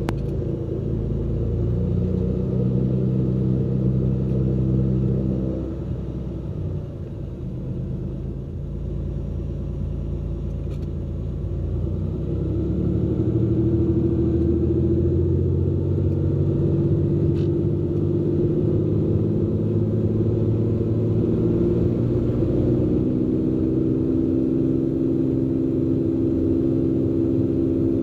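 Cessna P210N's turbocharged six-cylinder piston engine and propeller, running at low power at first, then throttled up from about ten seconds in, rising in pitch and loudness to a steady full-power note for the takeoff roll.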